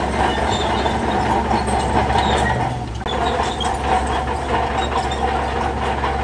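Crawler bulldozer's diesel engine running hard, with frequent clanks and rattles from its steel tracks and the stone fill. The sound dips briefly about three seconds in, then picks up again.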